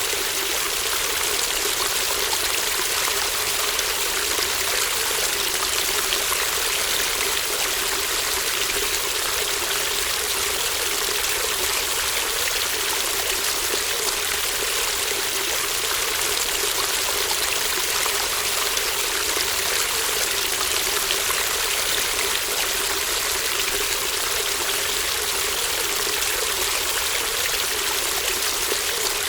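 Shallow brook babbling steadily, an even rush of rippling water with no pauses or changes.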